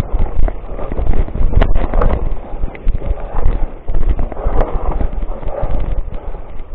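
Mountain bike rattling over a rough downhill trail, with many irregular knocks and bumps from the frame and wheels and wind rumbling on the microphone.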